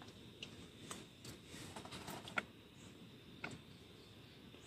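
Silicone pop-it fidget toy bubbles being pressed one at a time, giving faint, irregular soft pops, about eight in under five seconds.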